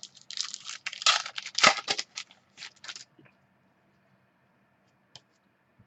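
Trading cards and their plastic sleeves being handled, with rustling and scraping for about three seconds, then only a faint steady hum.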